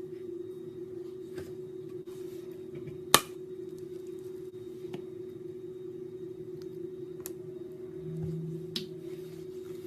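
A steady hum with a few scattered sharp clicks; one loud snap about three seconds in, and a brief low tone near the end.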